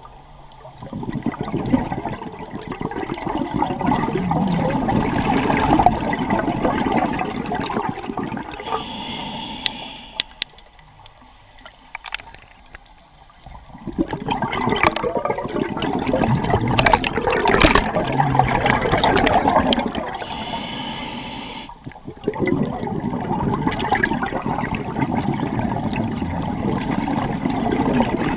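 Scuba diver breathing underwater: exhaled bubbles rush and gurgle out of the regulator in three long breaths, with a quieter pause between the first and second.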